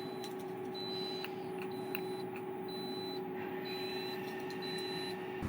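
Short high-pitched electronic beeps, about one a second, over a steady hum while the Predator 13,000-watt tri-fuel generator is started by remote. Near the end the engine catches and settles into a steady low running drone.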